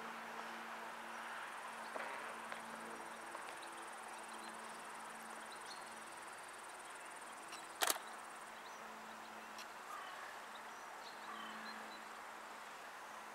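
Faint steady hum of a distant approaching train, with a thin high insect buzz that stops about eight seconds in and one sharp click just before that.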